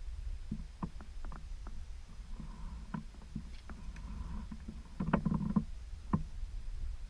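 Scattered light knocks and clicks over a steady low rumble, with a louder clunking bout about five seconds in: gear or footsteps being handled and moved outdoors.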